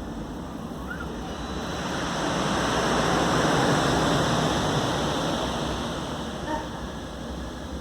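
Ocean surf: a wave swells in about two seconds in and washes out again, fading after about six seconds, over a steady rush of water.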